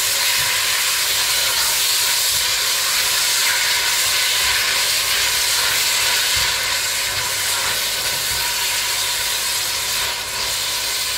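Chopped tomatoes and onions sizzling in hot oil in a stainless steel pot, a steady frying hiss, with occasional soft knocks as a spatula stirs them.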